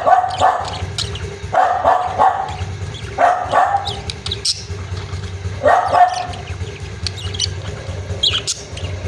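Pet budgerigars chirping in short high notes while a dog barks in four bouts, near the start, about two seconds in, about three and a half seconds in and about six seconds in, over a steady low hum.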